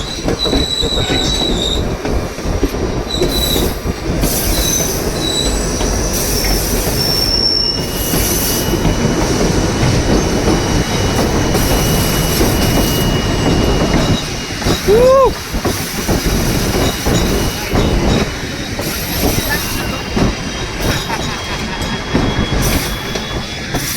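White Pass & Yukon Route train running along the rails: a steady rumble and clatter of the wheels, with short high-pitched wheel squeals through the first half.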